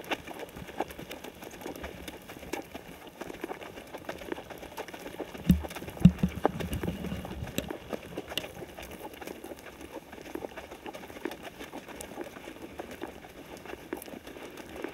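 Horse's hooves clopping at a walk, irregular clicks and knocks, with two louder thumps about five and a half and six seconds in.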